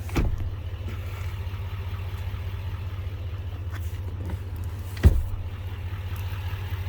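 Low steady rumble of the Silverado 3500HD's 6.6-litre Duramax V8 turbo diesel idling, with two dull thumps, one at the start and a louder one about five seconds in.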